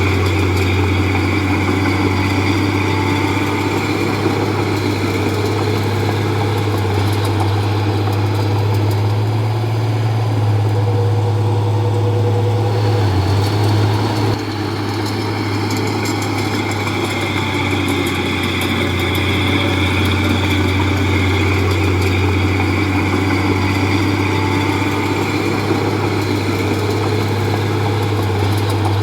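Komatsu D31P bulldozer's diesel engine running steadily, with a brief dip about halfway through.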